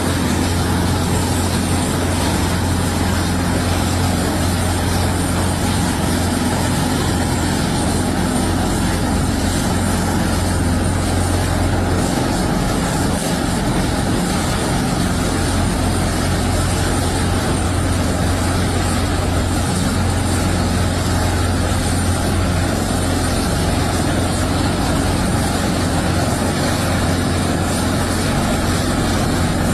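Steady, loud drone of a helicopter's turbine engines and rotor, an even noisy rush over a strong low hum that does not change.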